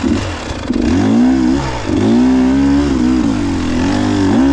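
Two-stroke enduro dirt bike engine revving hard under throttle on a steep climb, its pitch rising, dipping briefly and rising again as the rider works the throttle.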